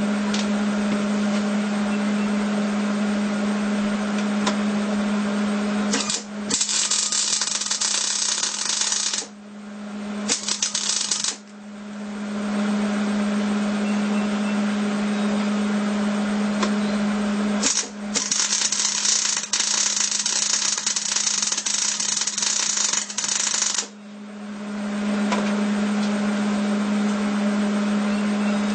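Hobart Handler 210 MIG welder: a steady hum, broken by three bursts of arc crackle. One starts about six seconds in and lasts about three seconds, a short one follows around ten seconds, and a longer one of about five or six seconds comes past the middle. The arc runs sputtery, which the welder puts down to not having purged the shielding gas line.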